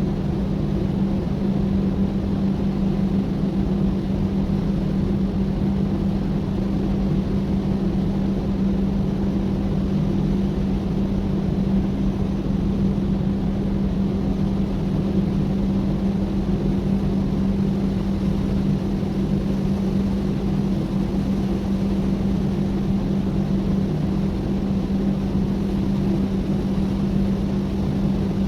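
A large ship's diesel engine running steadily, a constant low drone with a strong steady hum.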